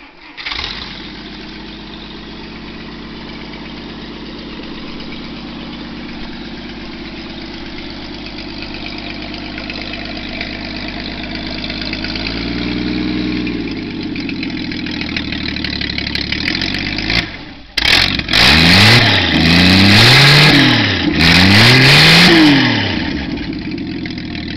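A 1959 Studebaker 185 cubic-inch flathead six-cylinder engine, on a run stand, catches at once and runs steadily. Near the end it is revved up and down about three times, loudly, then drops back to idle.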